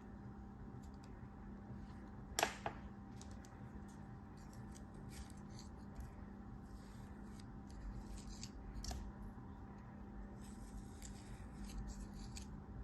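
Faint, crisp cutting sounds from a blade slicing through soap or kinetic sand: a series of short scraping and crunching strokes, with one sharp click about two and a half seconds in. A steady low hum runs underneath.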